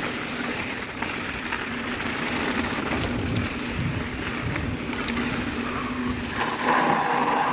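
Mountain bike riding down a dirt trail: a steady rush of tyre and trail noise with wind on the microphone, a steady low hum underneath, and a few clicks and knocks from the bike over rough ground, louder near the end.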